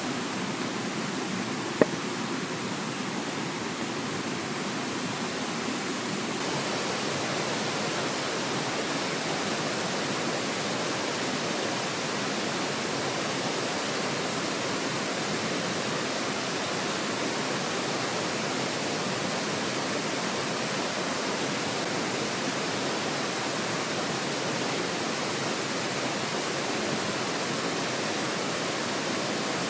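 Mountain stream rushing steadily, a constant even wash of water noise, with one sharp click about two seconds in.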